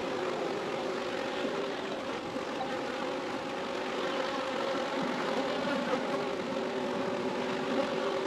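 Honeybee swarm buzzing en masse around the hive, a steady, dense hum of many wingbeats.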